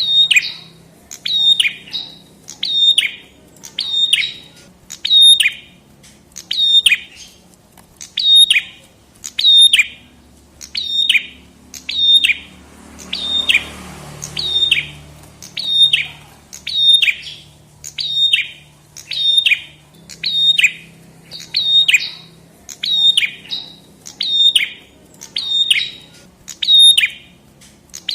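Prenjak kepala merah (red-headed prenjak) calling: one short, sharp chirp with a falling tail, repeated at an even pace about once a second.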